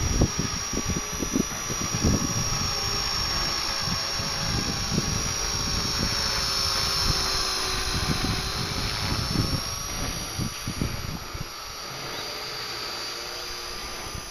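Walkera V120D02S micro RC helicopter flying: a steady high-pitched whine from its electric motor and rotor, the pitch wavering slightly as it fights the wind. Gusts of wind buffet the microphone, and the sound eases somewhat near the end.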